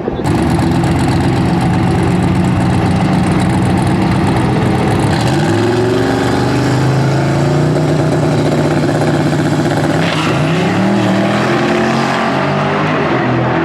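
Twin-turbocharged LSX 427 V8 of a drag-racing Chevrolet Silverado running loud, its engine note stepping up in pitch about five seconds in and again about ten seconds in.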